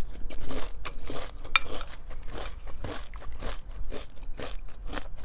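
A person chewing a mouthful of crunchy breakfast cereal close to the microphone, with a steady crunch about twice a second.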